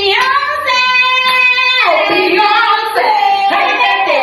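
High female voices singing, holding one long note for about a second near the middle.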